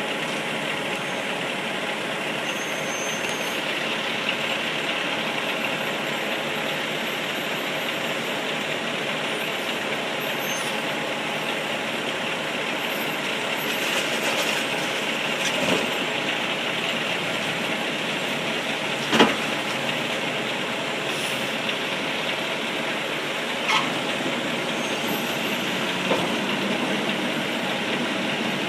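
Garbage truck engine running steadily, with a few sharp knocks or bangs; the loudest comes about two-thirds of the way through.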